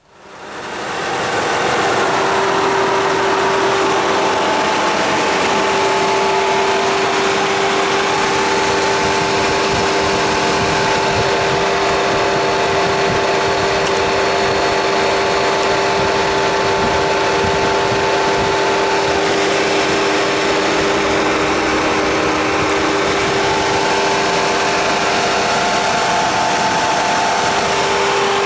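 Audi 2.0 TFSI four-cylinder turbocharged petrol engine idling steadily, heard close up in the open engine bay; the sound comes up over the first two seconds and then holds even.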